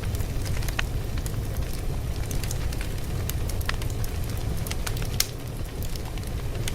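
Fire crackling: a steady low rumble with scattered sharp pops and snaps, one sharper pop about five seconds in.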